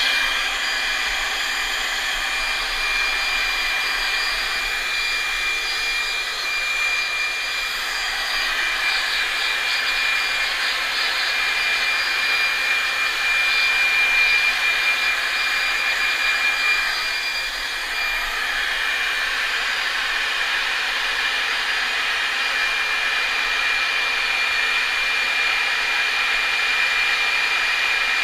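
Electric hair dryer blowing steadily, with a constant high whine over the rush of air, used to blow-dry a pet's fur.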